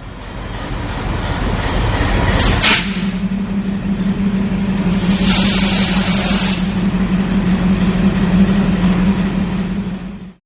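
Diesel locomotive running, with a steady low hum and two bursts of air hissing: a short one about two and a half seconds in and a longer one of over a second around the middle. The sound cuts off suddenly near the end.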